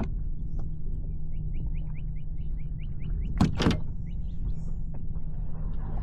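Steady wind rumble on the microphone. About a second in comes a quick run of short, rising high chirps, and past the halfway point one brief louder sound.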